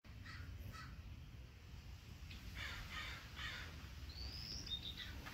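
Birds calling outdoors: three harsh caws in quick succession a little past halfway, with fainter short calls near the start and a short rising whistled note near the end, over a low steady rumble.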